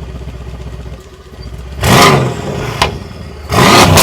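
A car engine idling and revved twice in short blips, the second rev followed by a rapid string of sharp pops.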